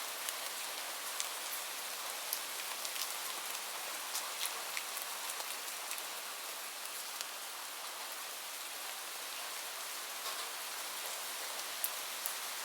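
Steady rain with a wood fire crackling: a constant even hiss with scattered sharp pops and ticks, several a second.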